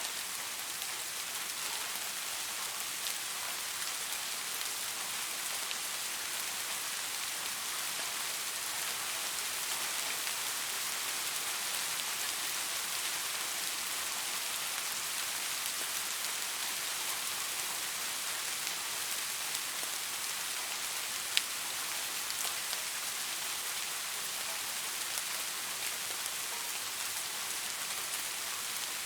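Steady rain falling on leaves: an even, dense patter of drops with a hissy, high-pitched character, and one sharper drop strike about three-quarters of the way through.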